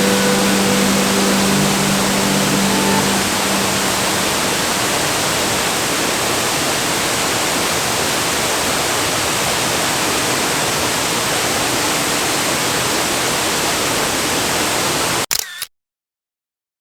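Waterfall rushing steadily, an even wash of falling water; it cuts off abruptly near the end.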